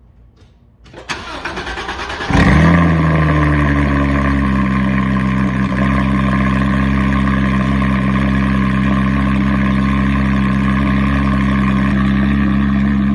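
2016 Porsche 911 GT3's 3.8-litre flat-six cold-started through a GMG centre muffler delete: the starter cranks for about a second, the engine catches with a flare of revs a little over two seconds in, then settles into a steady fast cold idle.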